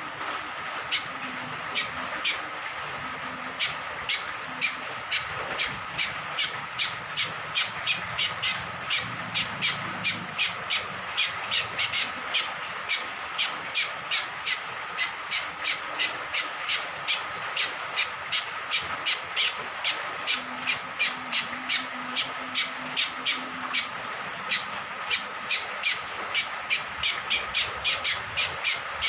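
Cucak kombok (kecial kombok), a honeyeater, giving short sharp calls over and over, about two to three a second, over the steady hiss of rain. The calls are sparse at first and come thick and fast from a few seconds in.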